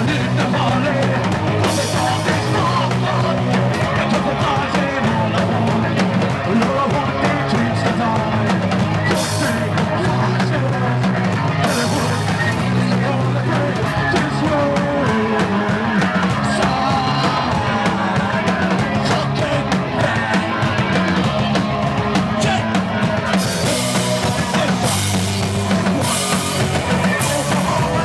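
A rock band playing live: distorted guitars, bass and drum kit with crashing cymbals, loud and continuous, with some shouted singing.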